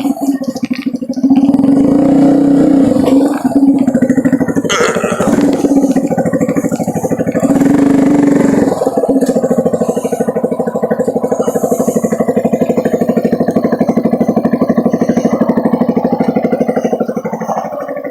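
Motor vehicle engine running under way, with a steady fast pulse. The engine note dips briefly about nine seconds in, then carries on.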